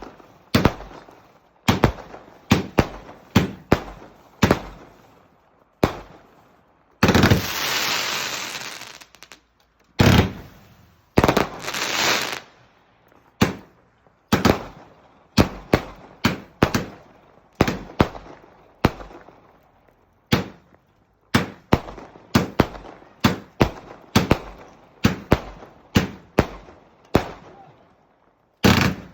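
Fireworks going off in a rapid, irregular string of sharp bangs, several a second at times, with two longer bursts of noise lasting a second or more, about a quarter of the way in and again shortly after.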